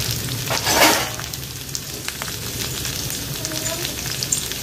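Potato sticks frying in hot oil in a kadai: a steady sizzle with fine crackles, and a brief louder rush of noise just under a second in.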